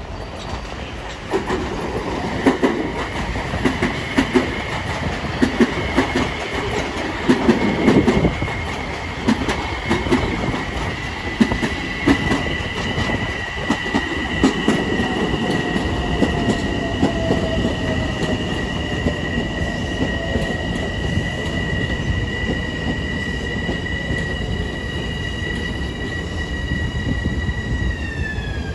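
Long Island Rail Road train passing at close range, its wheels knocking rhythmically over rail joints for the first half. A high steady tone in two pitches rings through most of the pass and slides down in pitch near the end.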